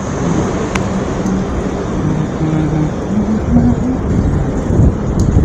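City street traffic: cars and other motor vehicles running past, with a steady rush of road noise and short engine hums coming and going.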